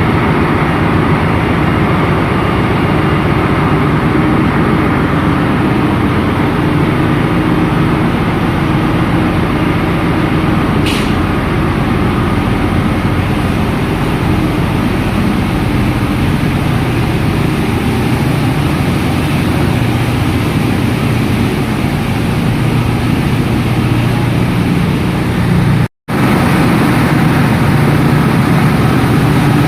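Ship's engine-room machinery running, a loud, steady, dense low drone. The sound drops out for a split second near the end.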